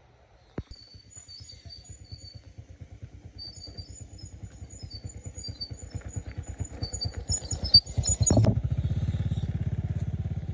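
Small old gasoline engine running with a rapid, even beat that grows louder, then runs harder and louder from about eight seconds in. A sharp click sounds just after the start.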